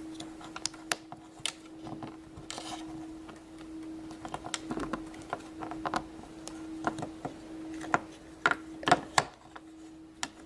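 Irregular small clicks and taps of a plastic Play-Doh popsicle mold and tools being handled as dough is pressed into the mold, over a faint steady hum.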